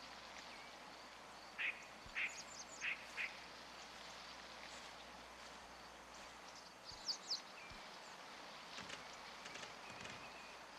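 A few short, sharp tree squirrel alarm calls, four in quick succession a couple of seconds in and two higher ones about seven seconds in, over faint outdoor hiss.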